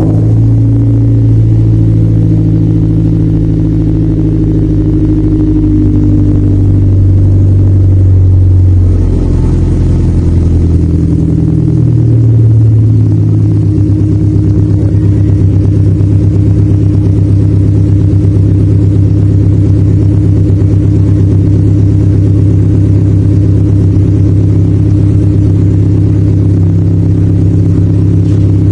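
Toyota Avanza's four-cylinder engine idling just after a cold start, heard through an aftermarket full exhaust system of headers and muffler as a loud, low, steady drone. Its pitch wavers from about nine to thirteen seconds in, then holds steady.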